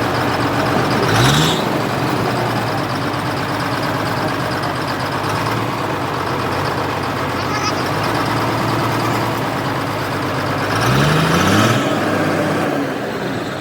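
Heavy diesel engine running steadily, revving up briefly about a second in and again near the end.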